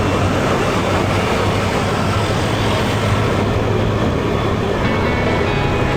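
Motorcycle engine running at a steady cruise with road and wind noise.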